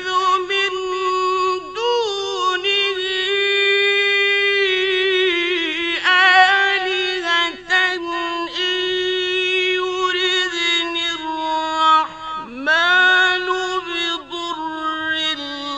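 A man's solo voice chanting Qur'an recitation in a melodic, drawn-out style. It holds long notes of several seconds, with ornamented rising and falling pitch turns between them.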